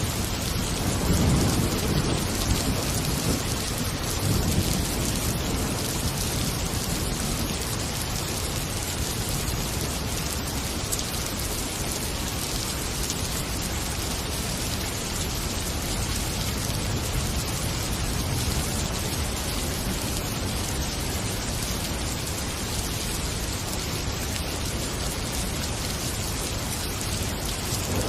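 Heavy rain falling in a dense, steady hiss, with low rumbling in the first few seconds.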